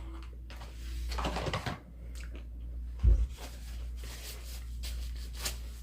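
Close-up handling and eating noises: a rustling scrape about a second in, a single dull thump about three seconds in, then a few light clicks.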